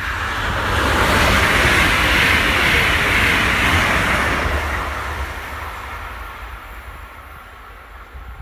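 Westbahn Stadler KISS double-deck electric multiple unit passing at speed: a rushing noise of wheels on rail and air, with a low rumble under it. It swells about a second in, holds for a few seconds, then fades away.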